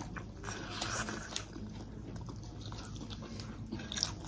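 A person chewing and biting food close to the microphone, with irregular small wet mouth clicks.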